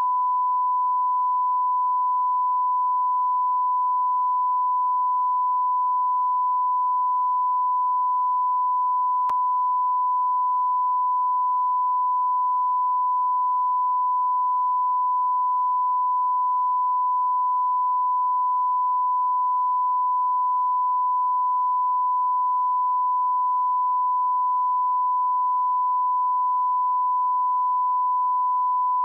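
Steady, high-pitched pure electronic tone at one unchanging pitch and level, like a test-tone beep. A faint click sounds about nine seconds in.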